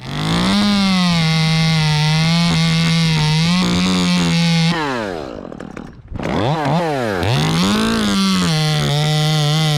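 Two-stroke chainsaw running at high revs, with a slight sag in pitch at times, as when it is cutting wood. About halfway through, the throttle is let off and the revs fall away. It is then revved up and down a few times before running steadily at high revs again.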